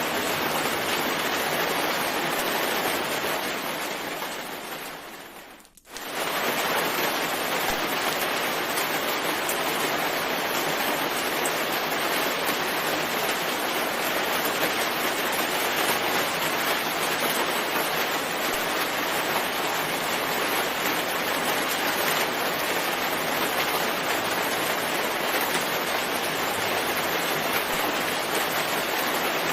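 Steady heavy rain hiss. About four seconds in it fades away to a moment of near silence, then comes straight back at full level and holds steady.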